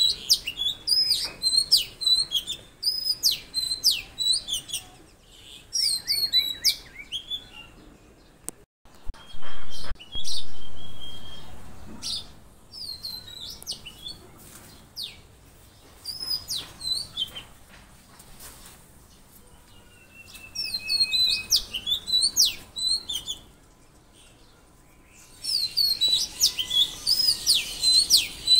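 Wild songbirds calling and singing: rapid, repeated short whistled notes that hook up and down, with chirps and brief trills, coming in bursts with quieter gaps. Two dull low thumps about nine and ten seconds in are the loudest sounds.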